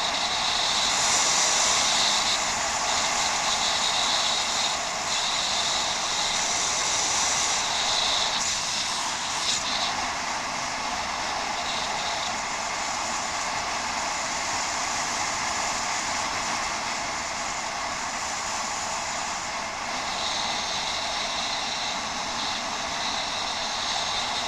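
Steady rushing noise of a bicycle ridden off-road, picked up by a head-mounted action camera. The hiss swells and eases every few seconds.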